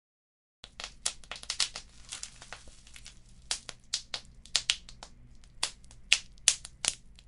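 Wood fire crackling: irregular sharp pops and snaps over a faint low rumble, cutting in after a moment of dead silence about half a second in.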